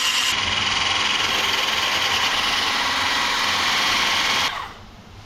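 The electric motor of a small kitchen appliance runs steadily with a high whine, then is switched off about four and a half seconds in.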